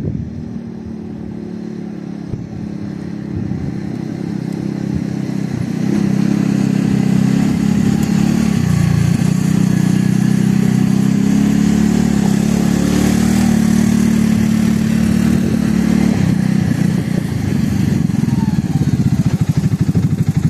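Segway Snarler 600 ATV engine running. It grows louder a few seconds in and holds a steady note, dips briefly a little before halfway, and near the end settles into a slow, even chugging.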